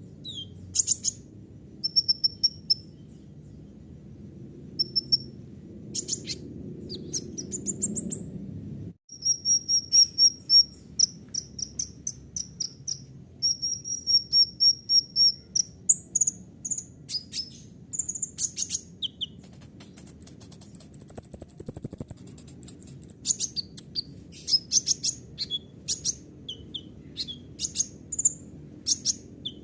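Kolibri ninja sunbird singing a long, varied, high-pitched song of rapid chips, repeated thin whistled notes and a loud buzzy trill about three-quarters of the way through. A brief break about nine seconds in marks an edit in the recording.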